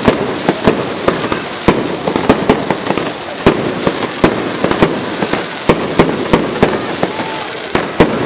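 Fireworks going off in quick succession: irregular sharp bangs, several a second, over a continuous crackling hiss of burning sparks.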